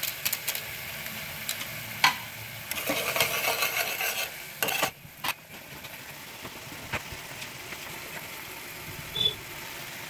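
Tomato and onion masala sizzling in a wok on a gas stove. For a couple of seconds a utensil stirs and scrapes it against the pan, with a few sharp knocks on the metal. There is a short high beep near the end.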